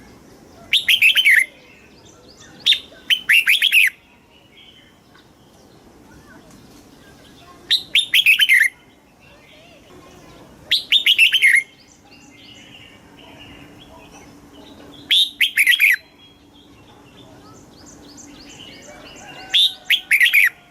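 Red-whiskered bulbul singing: six short, loud phrases a few seconds apart, each a quick run of falling, whistled notes lasting under a second.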